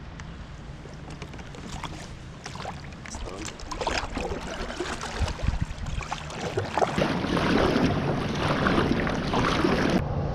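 Water splashing and sloshing around a fishing kayak, with small knocks. It grows louder from about four seconds in and cuts off suddenly near the end, over a steady low hum.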